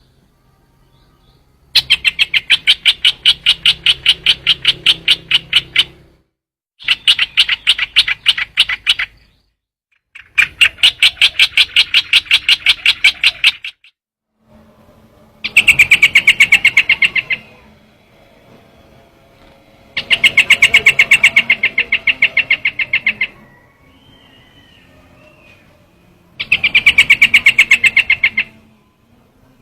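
Trao trảo bird calls: a rapid chattering series of repeated notes, about ten a second, in six loud bursts of two to four seconds each with short pauses between.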